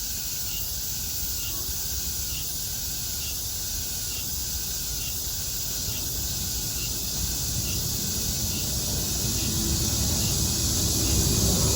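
Steady high-pitched drone of a cicada chorus, with a faint short chirp repeating about once a second. A low rumble of an approaching airplane swells over the last few seconds.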